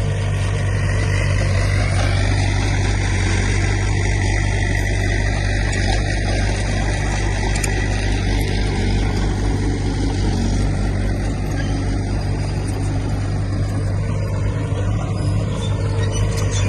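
A heavy earthmoving machine's diesel engine running steadily under load, a deep continuous drone.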